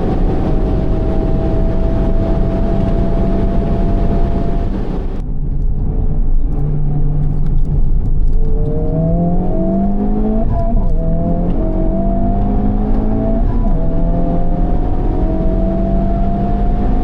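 Honda Civic Type R FL5's turbocharged 2.0-litre four-cylinder through a Mugen exhaust, heard from the cabin on track. The engine pulls with slowly rising revs, then about five seconds in the sound drops sharply as the throttle is lifted. A few seconds later the revs climb again in quick steps and the engine pulls hard through the gears, with one gear change about two-thirds of the way through.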